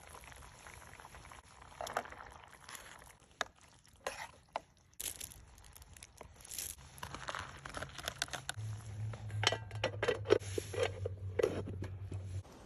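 Irregular crunching, crinkling and sharp clicks, like things being handled, busiest in the second half, with a low steady hum that starts about halfway through and stops just before the end.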